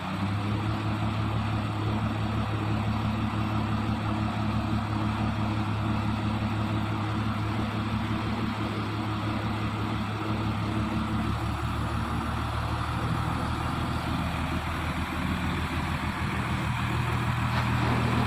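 A truck's engine running steadily at a constant low speed, with an even low hum.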